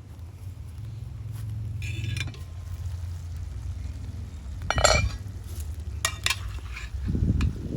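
A metal cooking utensil clinking and scraping against cookware in a few separate knocks, the sharpest about five seconds in, over a low steady rumble.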